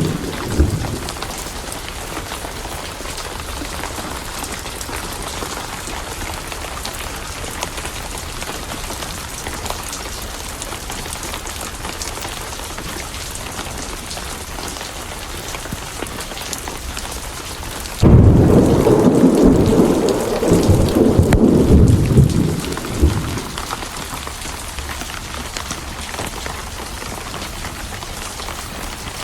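Steady rain with a thunderclap that breaks in suddenly about two-thirds of the way through and rumbles for about five seconds. The tail of an earlier rumble fades out in the first second.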